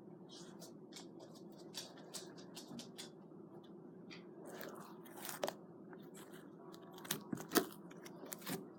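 Slime being squished and poked by hand: scattered small sticky clicks and crackles, with a few louder pops about five and a half and seven and a half seconds in.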